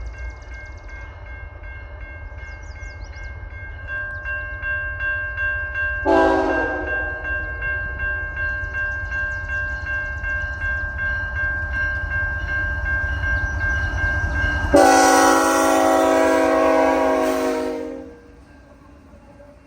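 Approaching freight diesel locomotive rumbling louder, with a level-crossing bell ringing steadily. Its air horn sounds a short blast about six seconds in, then a long, loud blast of about three seconds near the end: the crossing horn signal.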